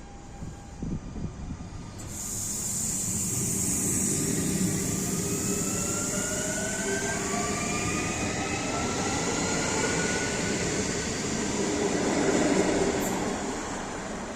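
CFL Coradia passenger train pulling away from the station. Its traction drive gives several whines that rise in pitch as it gathers speed, over a steady hiss and a low rumble from the wheels and running gear. It is loudest about twelve seconds in as it passes, then starts to fade.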